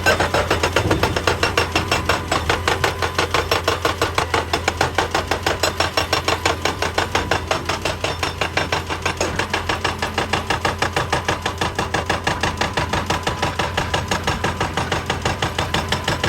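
Excavator's hydraulic rock breaker hammering on rock in a fast, even rhythm of several blows a second, with the excavator's engine running steadily underneath.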